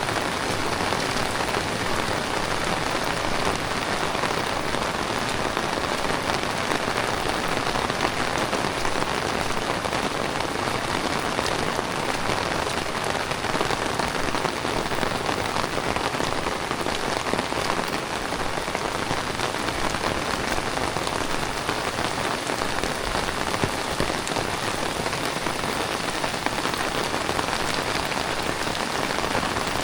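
Heavy tropical rain falling steadily, a dense even hiss of drops hitting the ground and surfaces.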